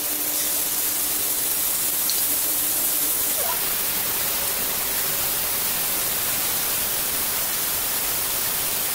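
Beef seekh kababs sizzling steadily in hot oil in a nonstick frying pan.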